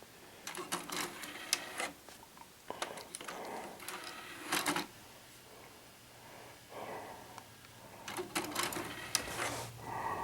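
Clicks and clatter of plastic and metal from a mid-1980s Zenith front-loading VCR being handled, coming in several short bursts. A low steady hum starts about halfway through.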